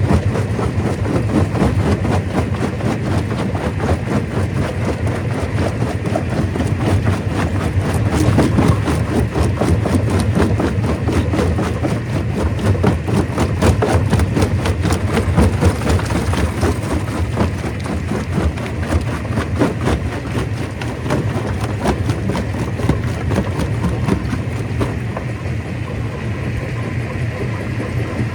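Stone crusher running, with a steady machine drone under a dense, unbroken clatter of rock being broken and tumbling through it, easing slightly near the end.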